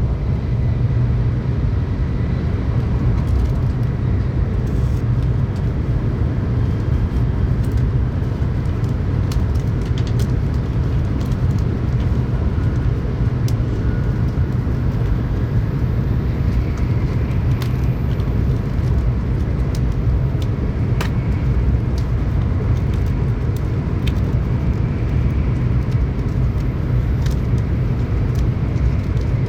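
Tokaido Shinkansen train running at speed, heard inside the passenger car: a steady, even low rumble with an occasional faint click.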